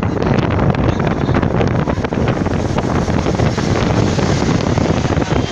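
Heavy, steady wind buffeting the microphone over the rush of a waterfall.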